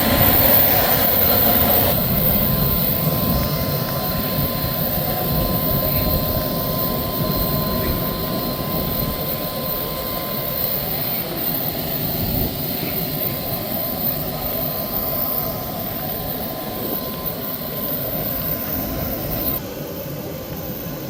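Steady aircraft engine noise, a loud even rush with a faint steady whine, slowly growing quieter and dropping a step near the end.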